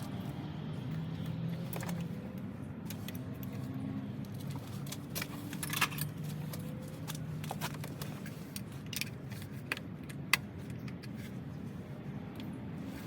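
Metal hand tools and engine parts clinking and rattling while being handled: a few sharp metallic clinks, the loudest about six seconds in and again near ten seconds.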